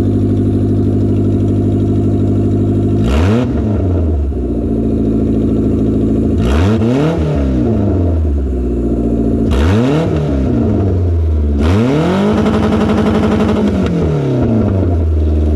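Toyota Camry demolition derby car's engine running steadily, then revved four times, each rev rising and falling back; the last rev is held for about two seconds before dropping.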